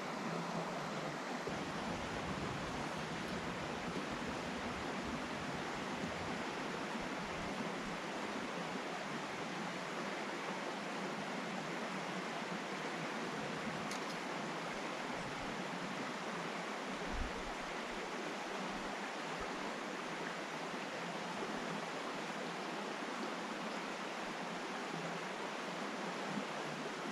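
Steady rushing of a flowing river, with a faint knock about two-thirds of the way through.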